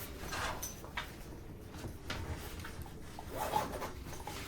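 Dog moving about close by: scattered faint clicks and a couple of short rustles.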